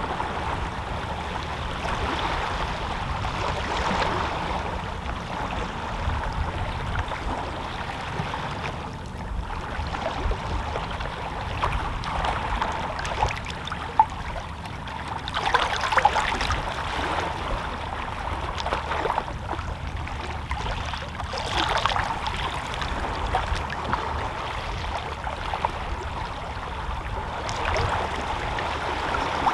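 Small waves of a calm sea lapping against shoreline rocks: a continuous wash of water that swells now and then as waves break. There is one brief click about halfway through.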